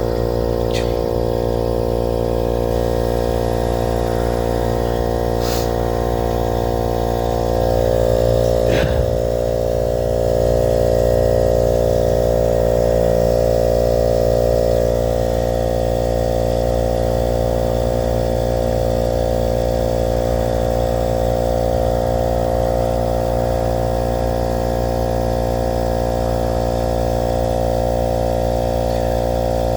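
Pittsburgh 12-volt 150 psi compact air compressor running steadily as it inflates a tire, a little loud, with an even, many-toned motor-and-piston hum. There are a few brief clicks about one, six and nine seconds in.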